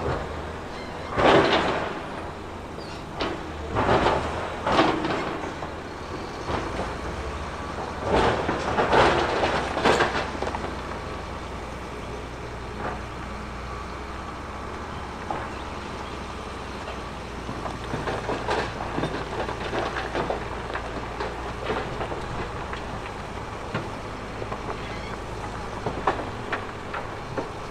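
Heavy earthmoving machinery working rock: a diesel engine drones steadily under loud scraping crashes of rock during the first ten seconds, then lighter clatter and knocks towards the end.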